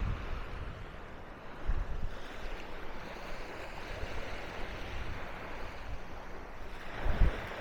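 Surf washing onto the beach in a steady hiss, with wind buffeting the microphone in low rumbles that swell about two seconds in and again near the end.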